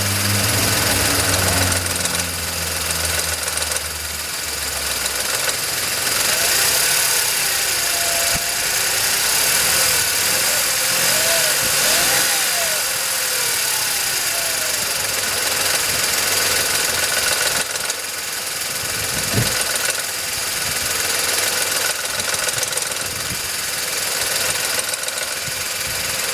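VW Polo 9N 1.2 12V three-cylinder petrol engine idling with a metallic knocking, which the owner suspects comes from the timing chain. A single short thump about nineteen seconds in.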